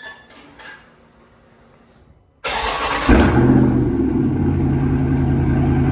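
Dodge Charger Scat Pack's 392 HEMI V8 cold-started with its mid muffler deleted. After a few faint clicks, it cranks briefly about two and a half seconds in, catches with a loud flare, then settles into a steady idle. The exhaust is pretty loud already.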